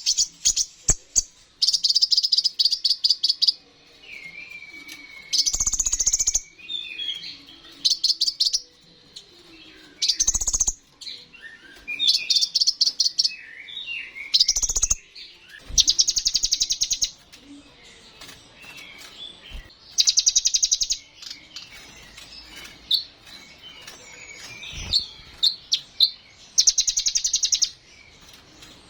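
A kolibri ninja sunbird singing: bursts of very rapid, high trilling about a second long, repeated every few seconds, with quicker twittering notes in between.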